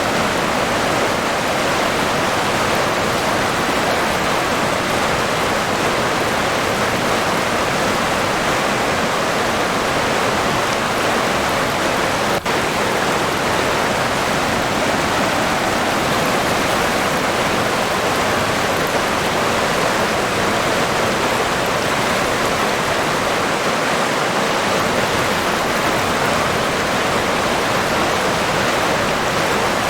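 River water rushing steadily, an even, unbroken rush, with a momentary dip in level about twelve seconds in.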